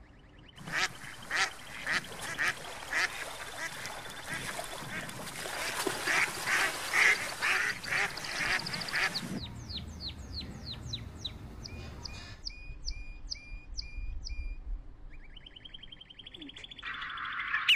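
Mallard ducks quacking in a steady series, about one call every half second to second, over a constant rush of wind and choppy water. About nine seconds in the water noise drops away and short, high, falling bird calls follow, typical of gulls; near the end a high call repeats rapidly.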